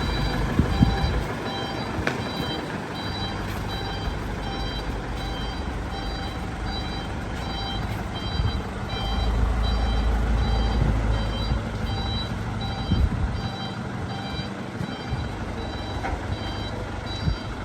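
A vehicle's reversing alarm beeping over and over at an even pace, over the low rumble of a running engine.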